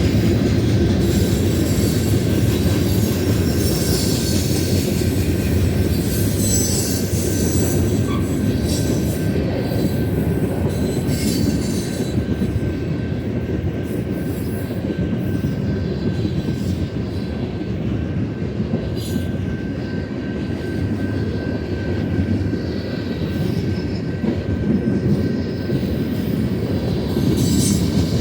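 A long Union Pacific manifest freight train rolling past: a steady rumble of steel wheels on rail with scattered clicks and a faint, thin wheel squeal.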